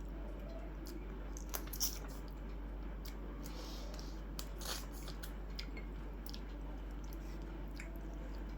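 A person eating: soft chewing with a few small clicks and wet squishes of food.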